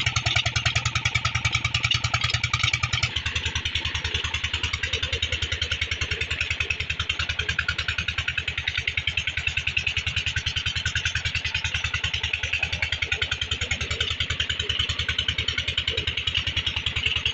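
Petter diesel engine running steadily with a fast, even firing beat. About three seconds in, the low hum under the beat drops slightly.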